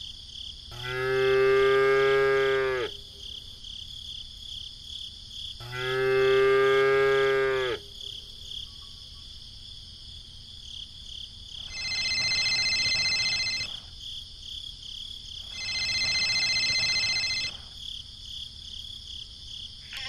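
Two long, deep, moo-like animal calls, each about two seconds. Then a telephone ringing twice, two-second rings about four seconds apart. A steady high chirping runs underneath.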